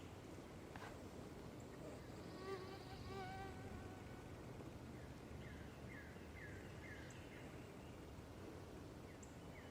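Faint woodland quiet with small birds calling: a short warbling phrase, then a run of about five quick falling chirps, over a low steady hum.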